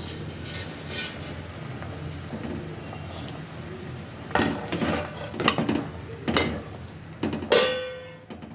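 Metal pots and utensils clattering in a kitchen, a few sharp knocks, then a loud clang near the end that rings on briefly.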